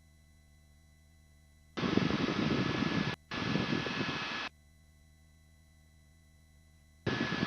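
Helicopter cabin noise through the headset intercom, switching on and off abruptly as the microphone's voice gate opens: a burst starting about two seconds in, a short break, a second burst, then quiet with a faint hum, and the noise cutting in again near the end.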